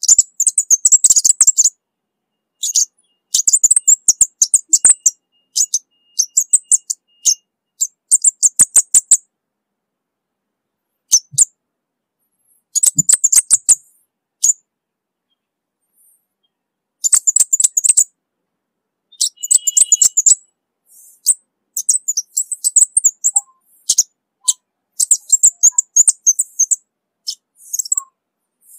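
Orange-bellied flowerpecker singing: repeated phrases of rapid, very high-pitched chips, each phrase a second or two long with short silent gaps between.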